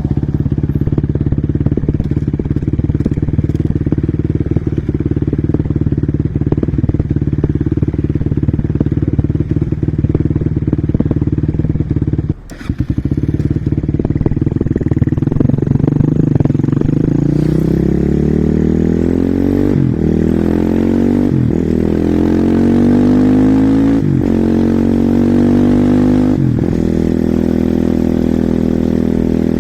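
Husqvarna SMR 450 supermoto's single-cylinder four-stroke engine under way, holding a steady pitch at first, then dipping briefly about twelve seconds in. From about sixteen seconds the revs climb again and again, with a sharp break in each climb as it shifts up through the gears, before settling near the end.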